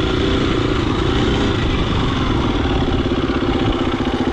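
Husqvarna FE250 four-stroke single-cylinder dirt bike engine running, its note dropping about a second and a half in and then settling into an even, rapid idle-like pulsing.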